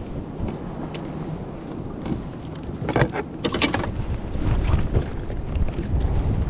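Wind rumbling on the microphone over water sloshing around a kayak, with a few brief sharper splashes or knocks about three to four seconds in.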